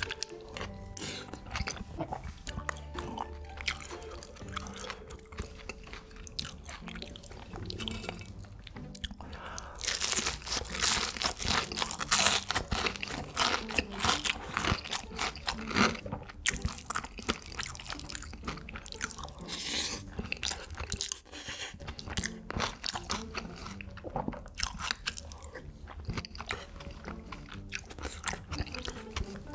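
Close-miked crunching and chewing of crisp food, densest and loudest in a run about ten to seventeen seconds in, with quiet background music underneath.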